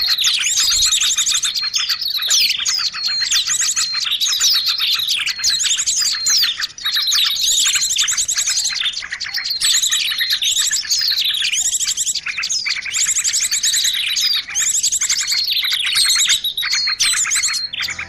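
Small songbirds chirping and trilling rapidly in a dense, continuous chorus of overlapping high calls: a bird-luring call track used to draw wild birds in to perch.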